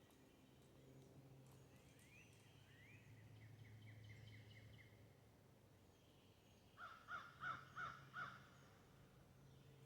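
Faint birdsong: a few rising chirps and a quick trill about two to four seconds in, then a bird calling five times in quick succession near the end. A faint low steady hum lies underneath.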